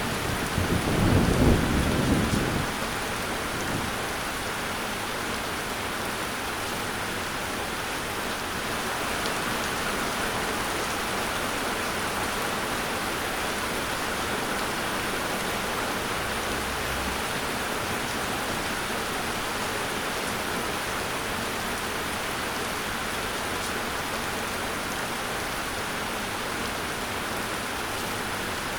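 Steady rain falling, an even hiss, with a low rumble of thunder dying away in the first couple of seconds.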